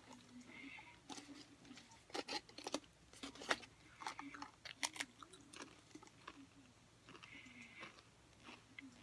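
Crunching bites and chewing of a stacked potato crisp, with clusters of sharp crunches about two to three seconds in and again around five seconds.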